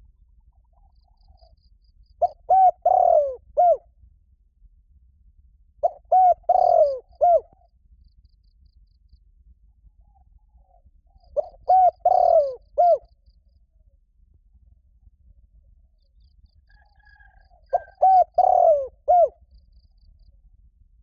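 Spotted dove cooing: four phrases of several notes each, spaced a few seconds apart, each lasting about a second and a half.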